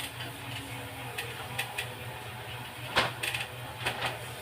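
A few sharp clicks and knocks of hard objects being handled, the loudest about three seconds in and another shortly after, over a steady low hum.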